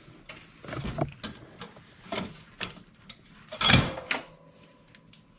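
Scattered metallic clicks and knocks, with one heavier clunk a little under four seconds in, as the mower battery and its hardware are handled and fitted back in place.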